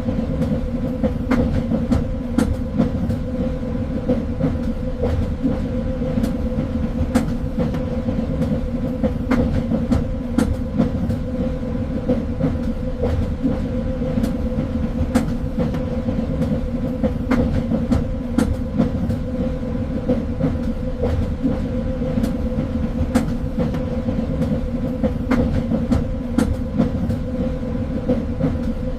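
Train running on rails: a steady low rumble with a constant droning tone, and sharp clicks and clacks from the wheels at irregular intervals.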